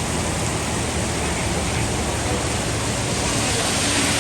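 Heavy rain pouring down steadily in a storm, a dense hiss that swells briefly near the end.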